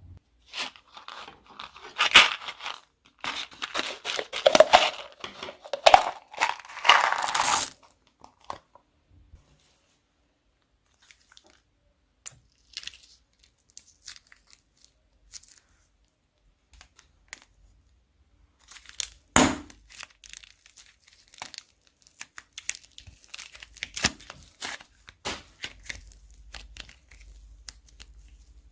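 Plastic bags crinkling and tearing as they are handled, in dense crackly bursts for the first several seconds. Scattered small clicks follow, then one sharp crackle about two-thirds of the way through and more crinkling near the end.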